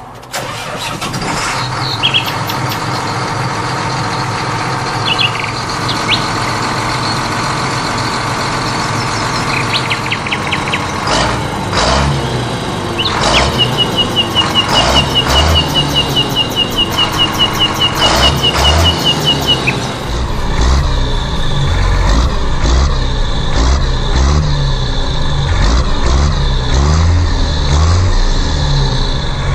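Tractor engine running with a low pulsing note from about two-thirds of the way in, and birds chirping over it in the middle.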